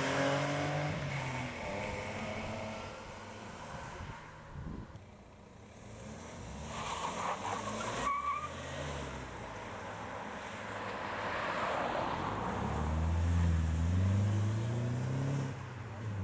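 Modified BMW cars pulling away one after another, each engine's revs climbing as it accelerates, the second about twelve seconds in. A brief high squeal of tyres comes about seven seconds in.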